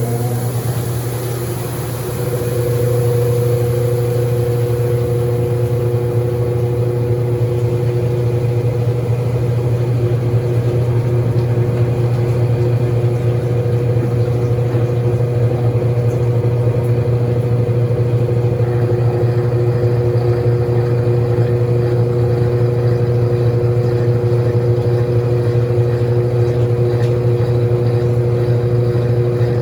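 Small washing machine running steadily with a constant motor hum and a few steady tones. A brief dip in level about two seconds in, then it runs on evenly.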